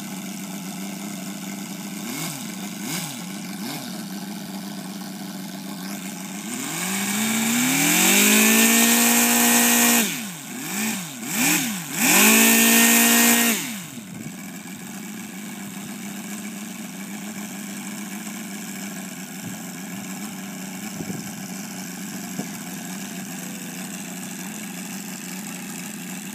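O.S. seven-cylinder four-stroke glow radial engine of an RC model Swordfish running at idle, then opened up to high revs about six seconds in. It is blipped down twice and back up, then throttled back to a steady idle at about the halfway point.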